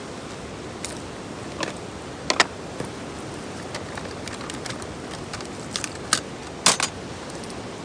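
Wood campfire crackling: irregular sharp pops and snaps, a few louder ones about two and a half seconds in and again near the end, over a steady hiss.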